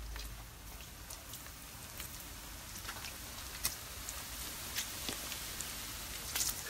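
Food frying in grease in a stainless steel pan on a propane cooker: a steady sizzle with scattered crackles and pops, with a sharper pop a little past halfway and a cluster near the end.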